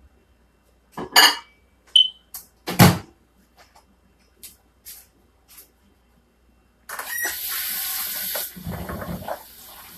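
Kitchen handling sounds: a few sharp knocks and clicks of utensils and dishes with a brief high squeak, then a steady rushing hiss starting about seven seconds in.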